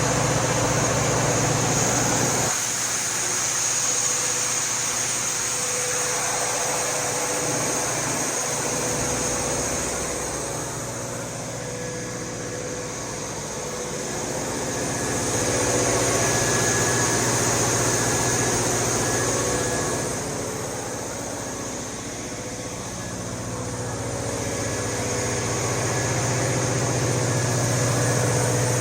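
Cummins KTA50-G9 V16 turbocharged diesel engine of a 1500 kW standby generator set running steadily at constant speed inside its sound enclosure. The drone holds steady, getting quieter twice and then swelling back.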